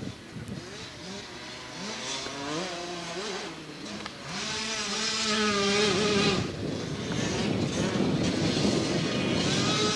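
Motocross dirt bike engines revving up and dropping back again and again through the gears as the bikes ride the track, growing louder to a peak about six seconds in.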